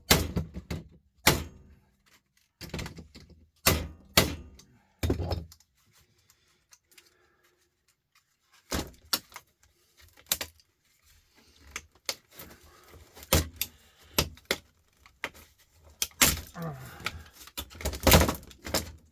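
Hammer blows knocking apart an electric sander's housing. The blows come as sharp knocks in irregular groups, mixed with the rattle and clatter of loose parts. They stop for a couple of seconds about six seconds in.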